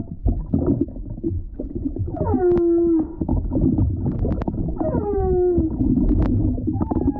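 Whale song heard underwater: two calls about two and a half seconds apart, each sweeping down in pitch and settling into a held low moan, over steady crackling clicks and water noise.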